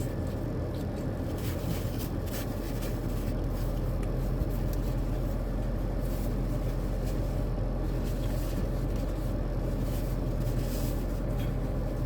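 Steady low hum of a car's running engine heard inside the cabin, with a few faint clicks and rustles from handling food.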